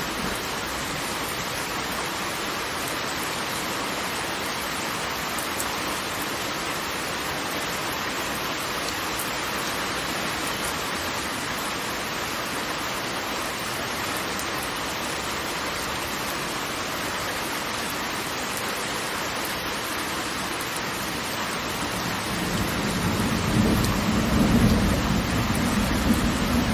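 Waterfall: a steady rush of falling water. About 22 seconds in, a deeper, louder rumble swells in underneath and carries on.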